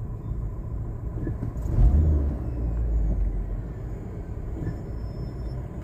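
Low, steady rumble of a Fiat Fiorino 1.4 van's engine and road noise heard inside the cabin, swelling louder for about a second around two seconds in.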